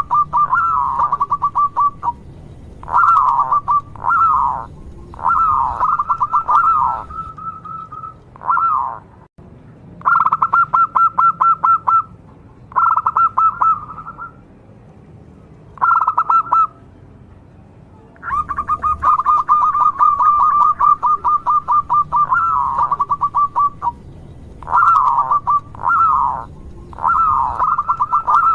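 Local zebra dove (perkutut) cooing over and over in vigorous song. Each phrase is a rapid rolling run of staccato notes, some sweeping down and back up, with short pauses between phrases.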